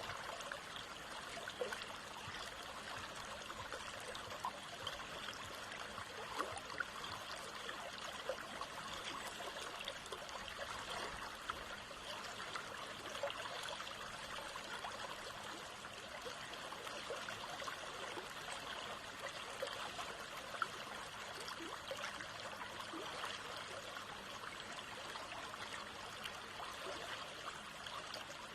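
Small stream of water running and trickling steadily over stones, a continuous babble with small splashes throughout.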